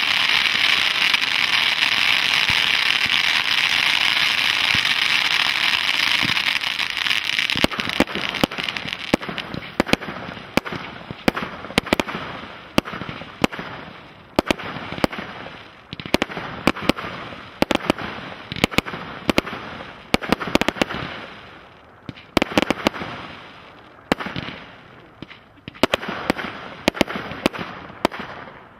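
Fireworks: for about the first seven seconds, a steady hissing crackle from a ground fountain and rising comet shots. Then a long run of sharp bangs at irregular spacing, sometimes several a second, as shots launch and burst overhead.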